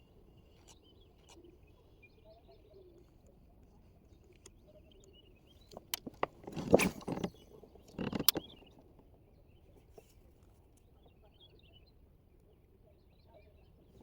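Faint bird chirping outdoors, broken a little past halfway by a few sharp knocks and two short bursts of noise, the first the loudest.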